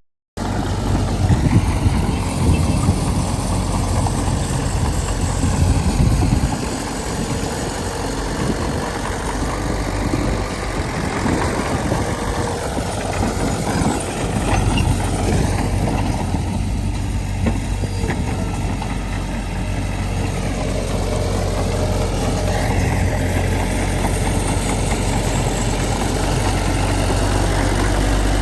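Diesel engine of earthmoving machinery running steadily with a low, even hum. It is louder and rougher for the first six seconds.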